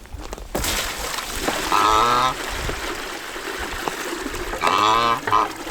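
Water pouring from a bucket into a plastic mud tub, a steady splashing that starts about half a second in and runs on. A goose honks twice over it, once about two seconds in and again near the end.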